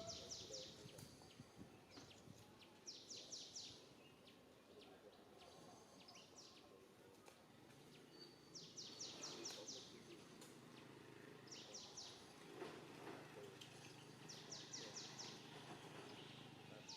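Faint bird song: a short phrase of four to six quick, high, falling notes, repeated about every three seconds.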